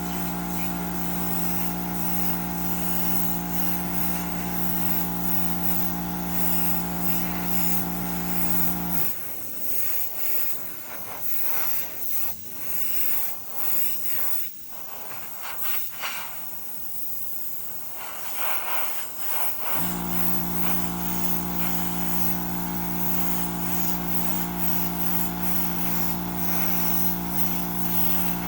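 Small pancake air compressor running with a steady motor hum, shutting off about nine seconds in and kicking back on about eleven seconds later, as it cycles to keep tank pressure. While it is off, the airbrush hisses in uneven bursts of spraying.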